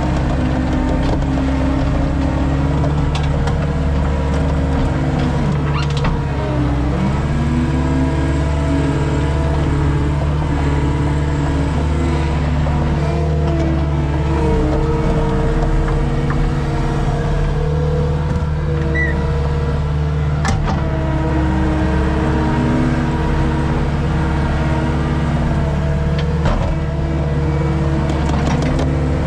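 Skid steer engine running steadily under load, its pitch dipping and rising now and then as it works, with a few sharp knocks.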